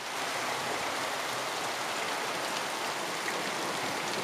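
Heavy storm rain falling steadily, an even hiss of rain on the ground and surfaces.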